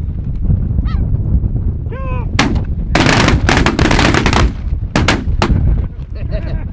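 A couple of goose honks, then a volley of shotgun fire from several hunters: one shot, a dense run of overlapping shots lasting about a second and a half, then three more spaced shots.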